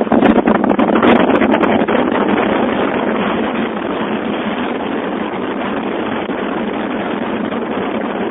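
Loud steady rush of wind and road noise from a moving taxi, with crackling buffets on the microphone during the first couple of seconds.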